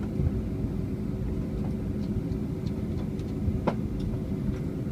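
Airbus A320 cabin noise: a steady low rumble of the engines and airframe with a constant hum running through it, and a single sharp click or rattle about three and a half seconds in.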